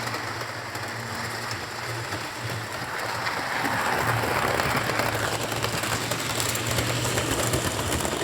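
Model trains running on a layout's track: steady electric motor hum and wheel clicking, growing louder from about three seconds in as a train comes close.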